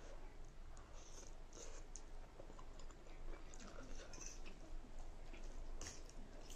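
A person chewing a mouthful of spicy ramen noodles, with soft, wet mouth clicks and squishes and a sharper click near the end.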